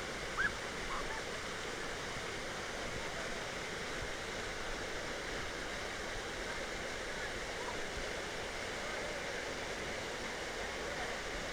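Steady rush of a waterfall's falling water, with a brief short call about half a second in.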